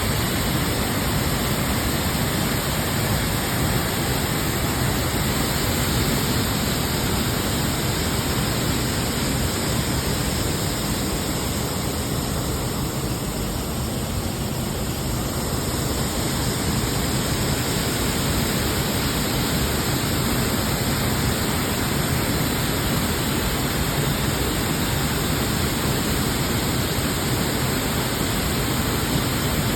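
Waterfall: a steady, dense rush of falling water, easing slightly about halfway through.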